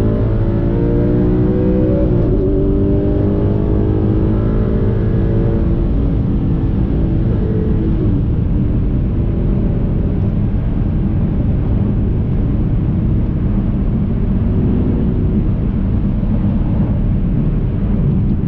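Audi R8's V8 engine heard from inside the cabin, climbing in pitch under acceleration, dropping once about two seconds in as it changes gear, then climbing again. From about six seconds in it settles into a steady low road and engine rumble at cruise.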